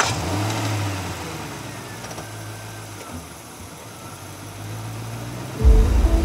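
Car engine running as the car drives slowly, a low drone that fades and returns. Loud background music cuts in abruptly near the end.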